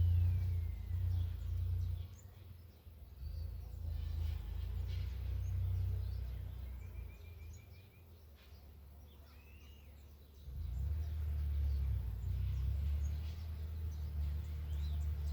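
Small tractor's engine running as a low drone, fading away about two seconds in and coming back loud about ten seconds in, as it works a disc harrow across the field. Birds chirp faintly while the engine is distant.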